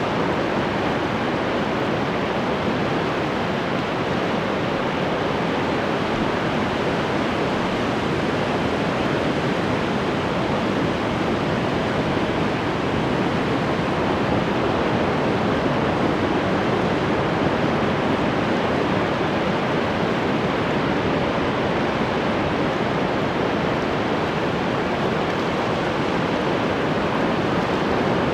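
Ocean waves breaking and washing on the shore, a steady, dense rush with only gentle swells in loudness.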